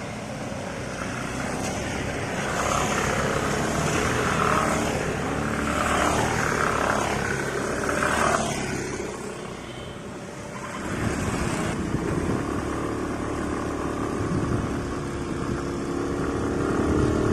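Aprilia SR150 scooter's single-cylinder engine running, its tone rising steadily over the last few seconds.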